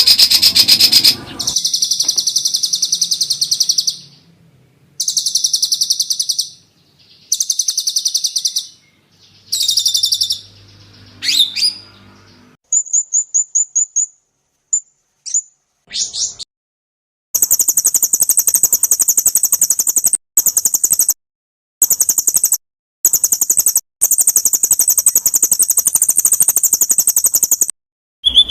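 Edited recording of songbird calls used as tutor song for white-rumped shamas: bursts of fast, very high-pitched chirping and trilling that cut in and out abruptly, with a run of quick ticking notes about halfway through.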